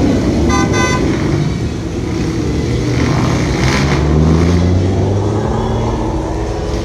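Car engines running and revving as cars drive by, with two quick car horn toots about half a second in.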